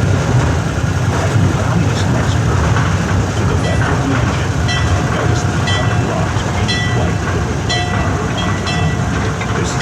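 A ride train rolls along its track with a steady low rumble and rail clatter. From about halfway through, short high ringing or squealing tones come in again and again.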